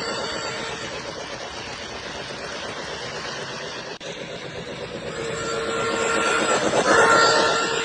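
Lionel LionChief Plus Hudson O gauge model locomotive running on track: a steady rumble of wheels and motor. It swells louder with a humming whine as it comes close, peaking near the end.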